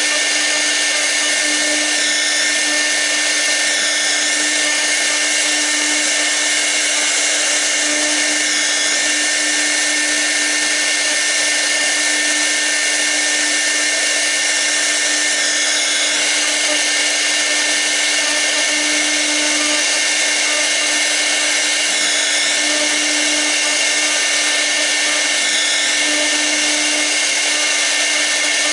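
6 kW air-cooled spindle of a 1325 CNC router running at speed while a V-bit carves, giving a steady high-pitched whine.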